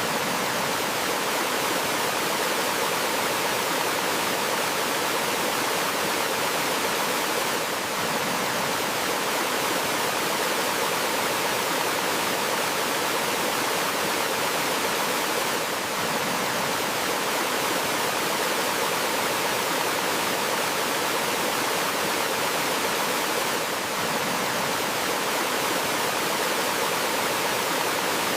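Steady rush of water flowing in a forest stream, an even hiss that dips slightly about every eight seconds.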